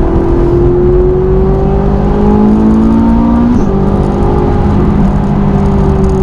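Ferrari 458's V8 through a Capristo exhaust, accelerating under load. Its pitch climbs, drops suddenly about three and a half seconds in as it shifts up a gear, then rises again and eases off near the end.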